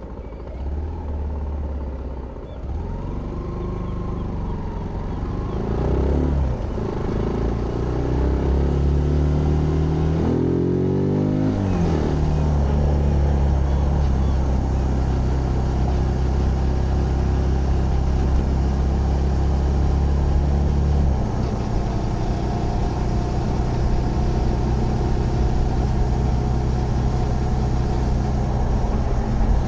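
Zontes GK 125 single-cylinder motorcycle engine accelerating through the gears, its revs climbing and dropping back at each shift over the first dozen seconds. It then holds a steady cruise, with a small drop in pitch about 21 seconds in.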